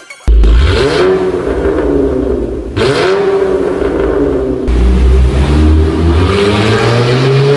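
Car engine revving through an aftermarket performance exhaust. The pitch dips and climbs again a couple of times, with abrupt changes about three and five seconds in.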